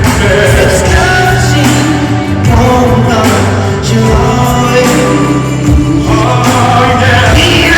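Live R&B ballad with singing over a full band, heard loud and steady in a large concert hall.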